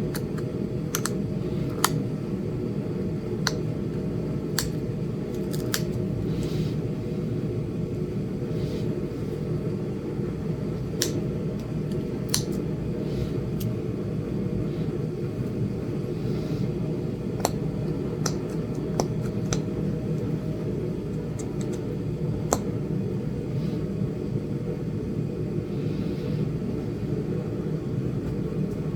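Sharp, irregularly spaced clicks of flakes snapping off a small Flint Ridge chert point as its side notches are pressure-flaked, about a dozen over the stretch. A steady low hum runs underneath and is louder than the clicks.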